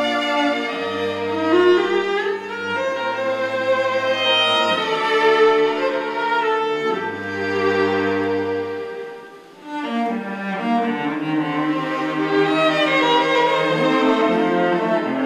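Bowed string music, violin with cello underneath, playing long held notes and a moving melody; it thins out briefly about nine seconds in, then carries on.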